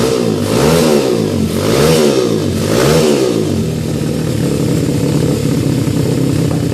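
140cc pit bike's single-cylinder engine blipped three times, the pitch rising and falling with each rev about a second apart, then settling back to a steady idle.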